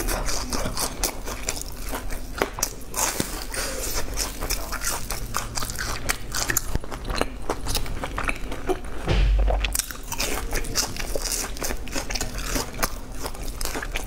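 Close-miked chewing and crunching of crispy deep-fried balls, with many sharp crackles of the crust breaking between the teeth. A brief low thump comes about nine seconds in.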